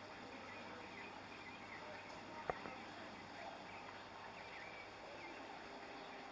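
Faint background murmur of voices with small high chirps, broken by one sharp click about two and a half seconds in.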